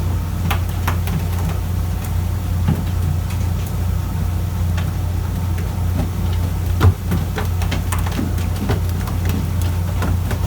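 A fishing boat's engine running steadily as a low hum, with scattered light clicks and taps on deck and one sharper knock about seven seconds in.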